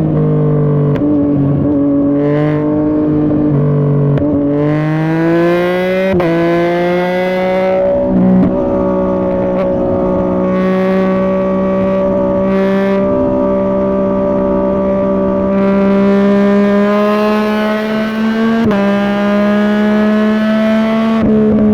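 2021 Yamaha MT-09's 890 cc inline three-cylinder engine through an aftermarket Dominator GP3 exhaust, running at highway speed. The engine note climbs between about four and six seconds in, and its pitch jumps up suddenly twice, about six seconds in and near the end, with wind rush over it.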